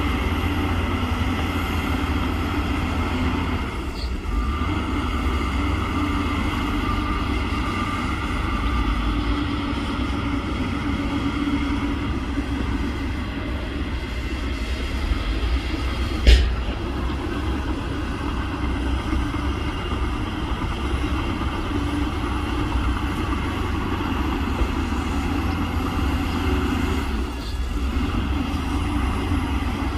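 Heavy earthmoving machinery running steadily, a deep diesel rumble, with a single sharp knock about halfway through.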